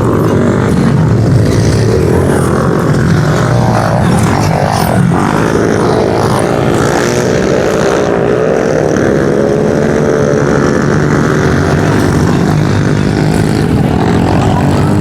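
Several pit bike engines racing at once, their pitches rising and falling as the riders roll off and open the throttle through a turn.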